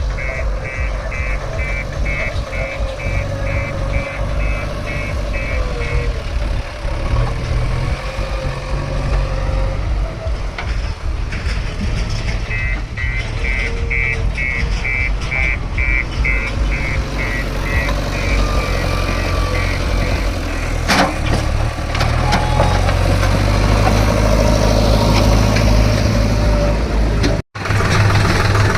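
Diesel engines of a JCB 3DX backhoe loader and loaded tractors running heavily, with a reversing alarm beeping about twice a second in two stretches. A sharp knock sounds partway through, and the engine gets louder near the end.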